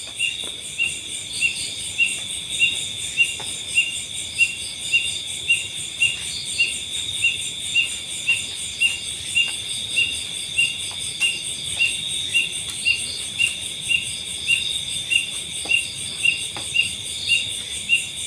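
Night insect chorus: a steady high-pitched buzz with a short chirp repeating evenly, a little under twice a second.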